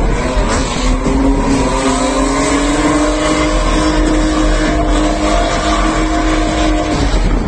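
BMW drift car's engine held high in the revs through a drift, its note rising slightly and then holding steady before dropping away near the end.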